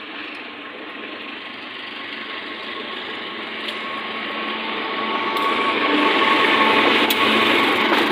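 A train approaching on the track, its running noise growing steadily louder, with a thin high tone and a few sharp clacks coming in over it in the second half.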